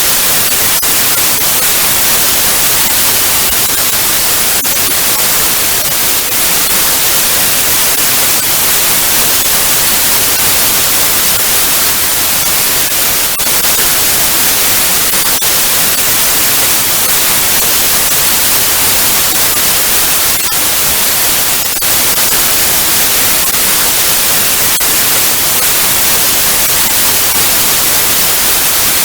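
Television static: a loud, steady hiss, brightest in the treble, with faint scattered crackles.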